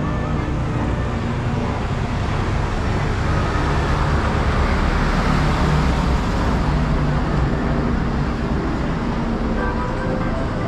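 Small canal tour boat's motor running steadily with a low rumble and hiss, swelling a little about halfway through.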